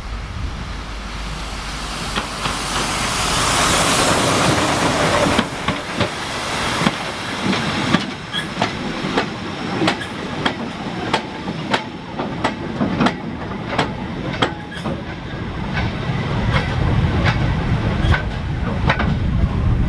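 A train passing on a heritage railway: a loud hiss builds for a few seconds and cuts off, then the wheels click over the rail joints in an uneven rhythm, with a low rumble building near the end.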